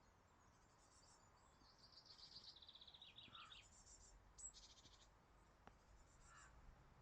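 Faint outdoor birdsong from small songbirds. A rapid trill steps down in pitch from about two to three and a half seconds in, and shorter high trills and chirps come before and after it, over faint low background noise.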